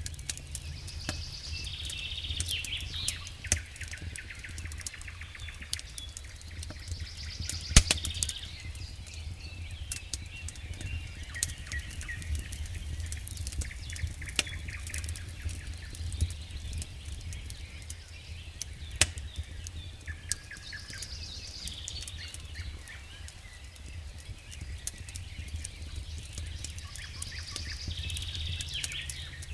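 Campfire crackling, with irregular sharp pops and snaps throughout, while birds call in short bursts several times. A steady low rumble lies underneath.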